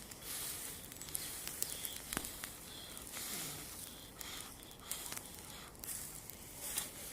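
Bonfire of branches and garden debris burning with a hiss and irregular crackles and pops.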